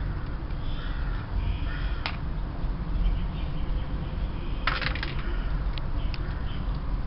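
A bird calling several times over a steady low rumble, with a few sharp clicks; the loudest is a short dense burst about five seconds in.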